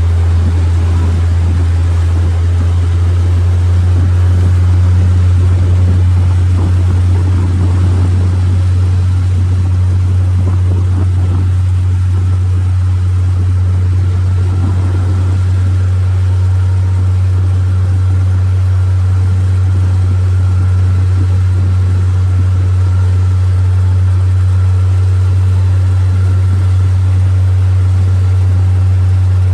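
Boat engine running at a steady idle-like speed, a loud unchanging low hum.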